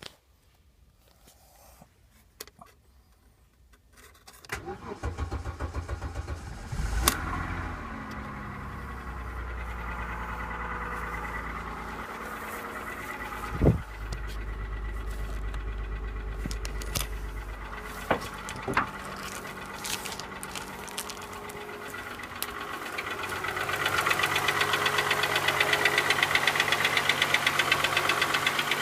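A 2006 Suzuki Verona's 2.5-litre inline-six cranking and catching about four seconds in, then idling steadily, with a few sharp clicks. Near the end the engine speed rises and it runs louder.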